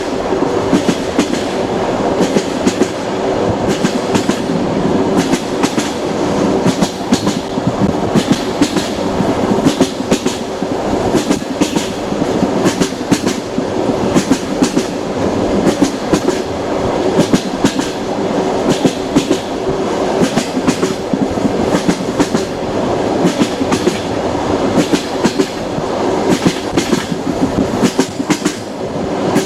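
Train wheels running on the rails: a steady rumble with frequent clickety-clack clicks and knocks, and a faint steady hum underneath.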